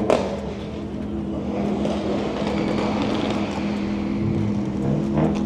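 A car engine running steadily with a low, even drone, and a sharp pop right at the start.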